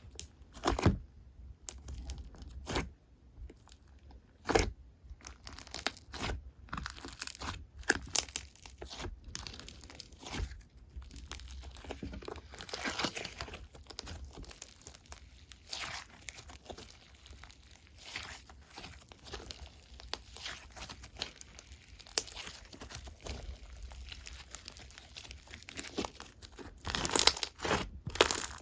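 Slime being squished and worked by hand, giving dense, irregular crackling and crunching, loudest near the end.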